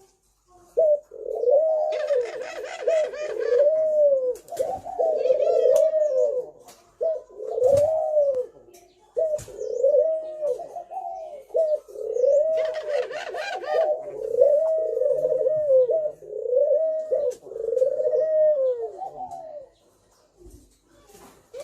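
Spotted dove cooing, a long run of short arched coos in the 'thổ' calling style used to rouse other doves, with a short break near the end. Twice a brief higher-pitched chattering sound comes in over the coos.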